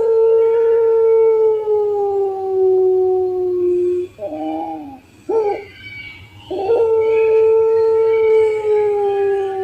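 Puter pelung dove cooing: a long drawn-out coo that slowly falls in pitch and ends about four seconds in, two short coo notes, then a second long falling coo starting near the middle.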